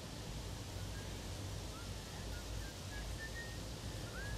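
Faint, scattered short bird chirps, one of them a quick rising note near the end, over a steady low rumble.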